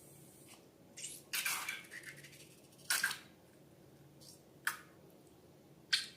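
Slime being handled: a series of short wet squishes and squelches, five or so, spaced irregularly, with a longer one about a second and a half in.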